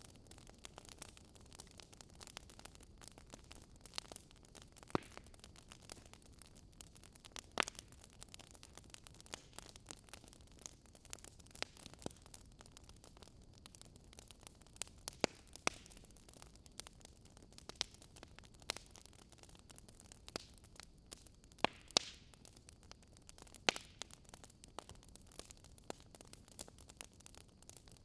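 Wood fire crackling: a soft steady hiss with sharp, irregular pops and snaps, a dozen or so standing out.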